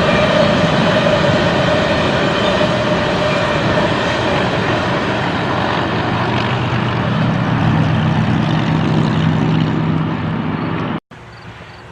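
A freight train rolling past close by: a steady loud rumble and rattle of rail cars with a high wheel squeal early on, and a lower locomotive engine drone coming in over the last few seconds. Near the end it cuts off abruptly to a much quieter background with faint regular high ticking, like insects.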